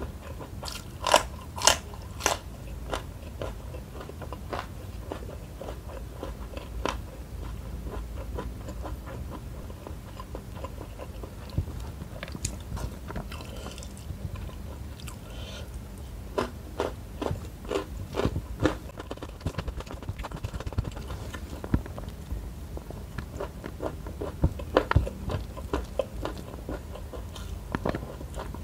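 A person eating a mukbang meal of rice, shrimp and stink-bean sambal, close-miked for ASMR: a few loud crisp crunches about a second in as a green chili is bitten, then steady chewing with scattered crunches and clicks, in denser clusters later on.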